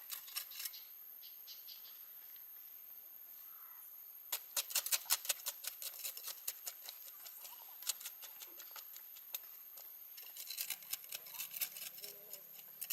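Irregular clusters of quick, sharp clicks and taps, densest about four to six seconds in and again near the end.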